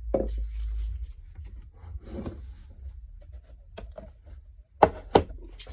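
Handling clunks and rubbing as a small engine is tipped over to drain its oil, with a few light clicks and then two sharp knocks close together near the end, over a steady low hum.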